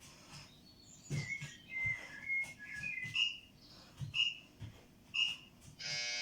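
Short, high whistled chirps, several in a row, over dull thuds on the floor. A buzzy tone starts near the end.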